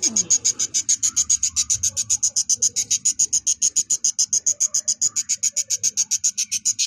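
Budgerigar hen screaming from her nest pot in a fast, even train of harsh high calls, about ten a second. It is the scolding of a brooding hen refusing to leave her eggs.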